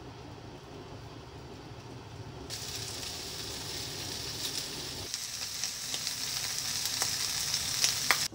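Pork-belly-wrapped enoki mushroom and asparagus rolls sizzling in hot oil in a frying pan, the hiss starting about two and a half seconds in as the rolls go into the pan and growing louder, with scattered pops of spitting fat. A low steady hum sits under the first half.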